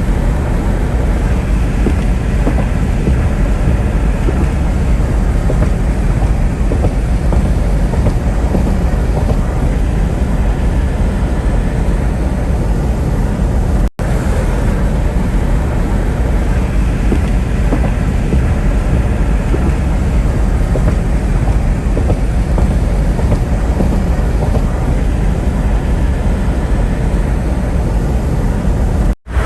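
Steady road and wind noise of a moving car, a loud even rumble heaviest in the low end, broken by a brief cut about halfway through.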